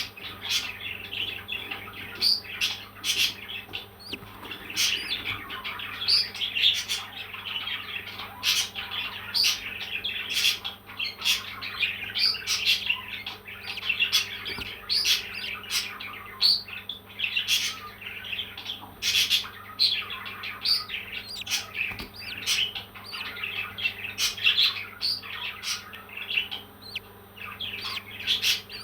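Pet parrots chirping continuously in a busy stream of short, quick calls, with sharp clicks scattered throughout.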